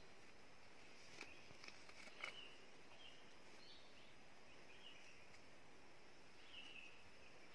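Faint forest ambience: short, soft chirps of distant birds every second or so, with a couple of small clicks about a second and two seconds in.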